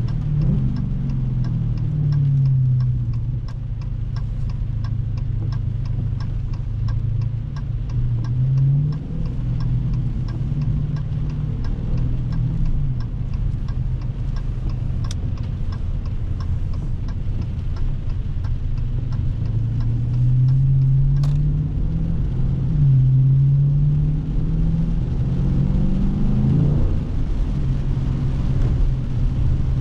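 Dodge Scat Pack's 392 Hemi V8 (6.4-litre) under way, its revs climbing and dropping back several times as it accelerates and shifts. A steady ticking, about two a second, runs through the first half.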